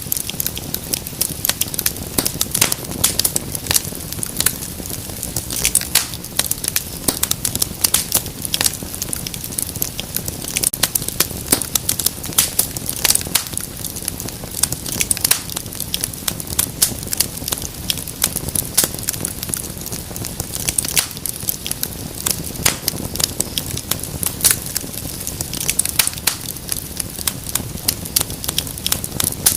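Wood fire crackling and popping: many sharp irregular snaps, several a second, over a low steady hiss.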